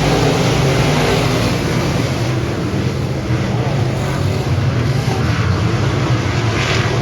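Dirt modified race car engine running at speed in a loud, steady drone.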